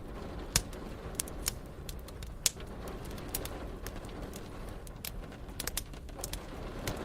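Wood fire crackling, with sharp pops and snaps, the loudest about half a second in and at about two and a half seconds, and a cluster near the end, over a steady low background of rain.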